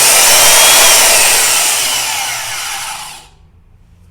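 Porter-Cable 7724 portable bandsaw switched on and run briefly with no load to test a newly fitted blade shoe. About a second and a half in it is switched off, and its motor whine falls as it winds down to a stop.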